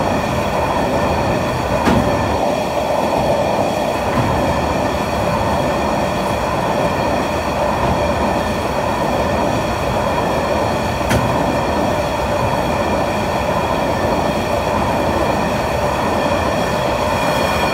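Grain hopper wagons of a long freight train rolling steadily past: an even rumble of wheels on rail with a steady high whine over it, and two sharp clicks, one about two seconds in and one about eleven seconds in.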